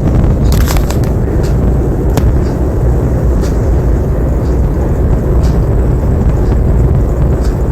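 Ceiling fan running: a loud, steady low rumble of moving air buffeting the microphone, with a few faint sharp clicks scattered through it.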